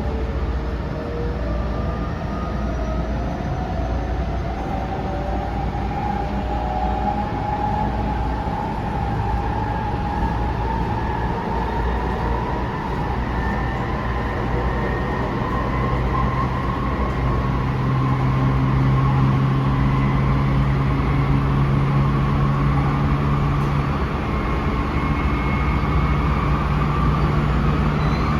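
A Tsukuba Express electric train running from inside the car, its motor whine rising steadily in pitch as it picks up speed over the rumble of the wheels on the track.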